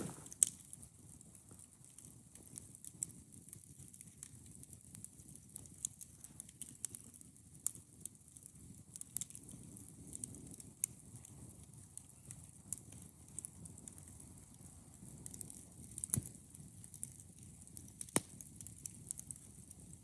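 Wood campfire crackling, with irregular sharp pops and snaps over a soft low hiss.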